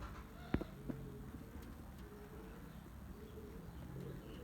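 Domestic pigeons cooing softly, with a single sharp click about half a second in.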